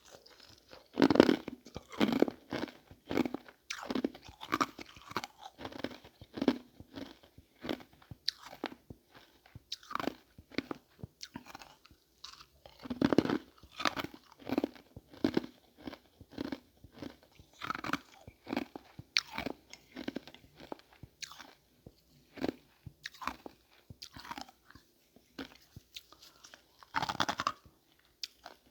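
Ice being bitten and chewed close up. There are loud crunching bites about a second in, around the middle and near the end, each followed by a run of irregular smaller crunches as the pieces are chewed down.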